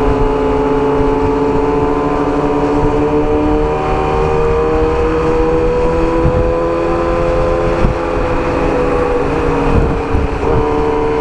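Kawasaki Ninja ZX-6R inline-four engine running under load as the bike gains speed on the road, its note rising slowly and dipping a little near the end, over steady wind rush.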